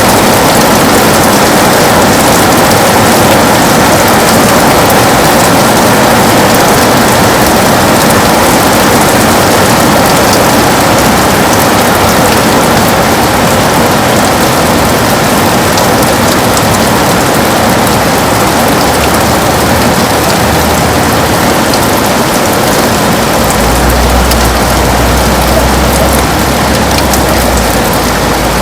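Heavy rain falling steadily on a window: a dense, even hiss with fine pattering drops. A low rumble comes in about three-quarters of the way through.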